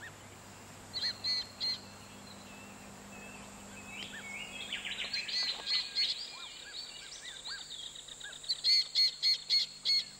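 Birds calling: short, sharp repeated notes, with a run of three about a second in, a busier tangle of calls around the middle, and a quick series of about eight notes near the end.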